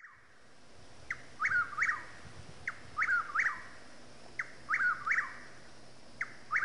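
A songbird singing the same short phrase four times, about every two seconds from about a second in: a sharp high note, a wavering note, then a quick up-and-down note. A faint low steady hum lies beneath.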